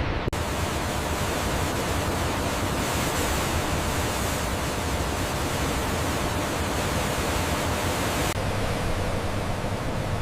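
Steady, loud rushing noise with no distinct tones. It cuts in abruptly just after the start and turns slightly duller about 8 seconds in.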